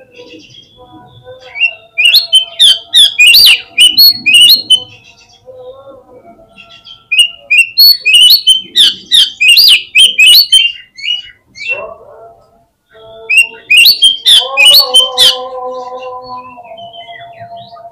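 Oriental magpie-robin (kacer) singing in three loud bouts of rapid, sharp, high notes, with fainter steady whistled tones underneath.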